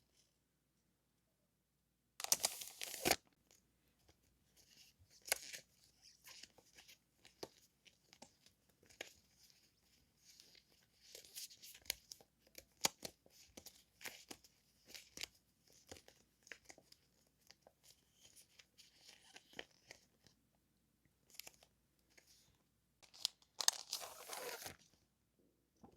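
Paper and plastic stationery packaging handled and torn open. There is a longer tearing rustle about two seconds in and another near the end, with small crinkles and taps between.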